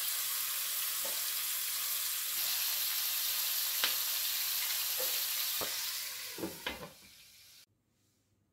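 Chicken back pieces shallow-frying in hot vegetable oil in a pot: a steady, hissing sizzle with a few sharp ticks, dying away about seven seconds in.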